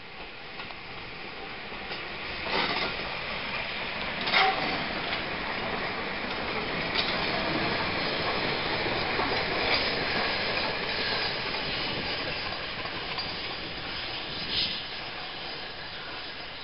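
Peppercorn A1 steam locomotive 60163 Tornado and its train of empty coaches rolling along the track. A steady rumble builds about two seconds in, with sharp clacks of wheels over rail joints, the loudest about four seconds in and another near the end.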